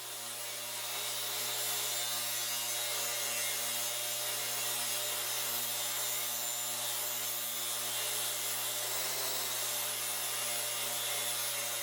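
Table saw ripping a 10-degree bevel along a walnut board, a steady, even cutting noise throughout.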